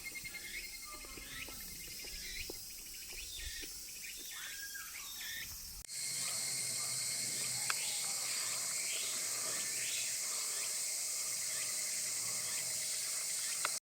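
Midsummer cicada chorus, a steady high buzz, with birds calling in short falling chirps. About six seconds in the buzz suddenly gets louder, and everything cuts off abruptly just before the end.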